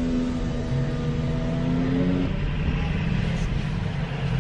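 Car engine running, heard from inside the cabin: a steady low hum whose pitch steps down about two seconds in.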